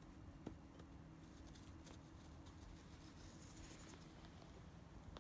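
Near silence: faint room tone with a few soft clicks and a brief light rustle.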